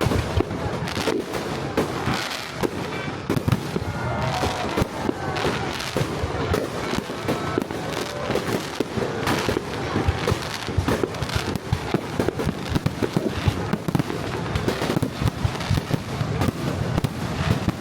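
Fireworks display going off in a dense, continuous barrage of bangs and crackles, starting abruptly.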